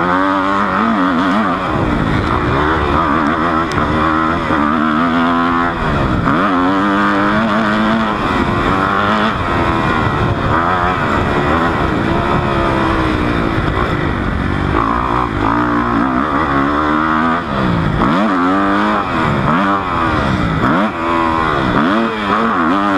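Dirt bike engine revving hard and backing off again and again while riding laps of a motocross track, its pitch climbing and dropping every second or two.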